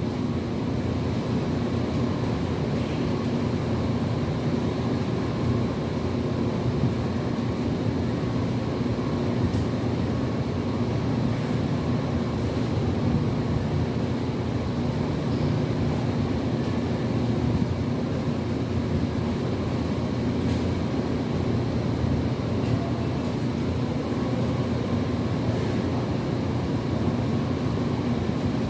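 Steady low rumble of running machinery, with a few faint clicks.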